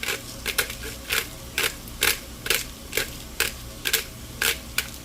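Hand-twisted black pepper grinder grinding peppercorns: sharp crunching clicks about twice a second, from a grinder slow enough that its owner wants a new one.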